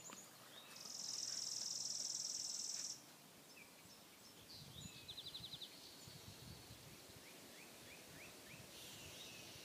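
Outdoor birdsong: a high, dry, even trill lasting about two seconds near the start, then fainter short chirps and a brief rapid trill a few seconds later.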